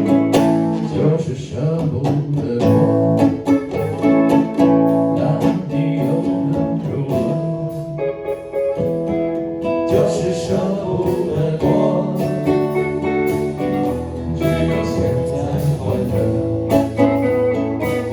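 Live jam of acoustic and electric guitars playing together, with sharp percussive strokes, likely from strumming or drum hits.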